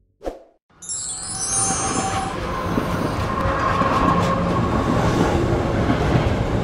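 Train running on rails. A high squeal of the wheels sounds for the first second or so, then a steady rumble carries on.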